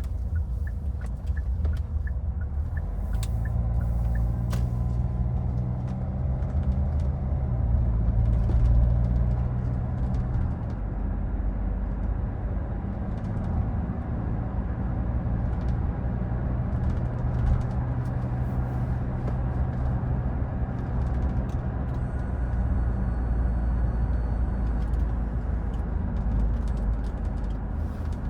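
2014 Hyundai Santa Fe driving in city traffic: a steady low engine and road rumble whose tone rises and settles as it moves. A regular light ticking runs for the first few seconds.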